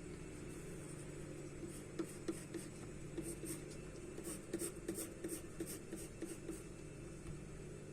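Charcoal strokes on paper: a run of short strokes, about three a second, starting about two seconds in and stopping near the end, over a steady low hum.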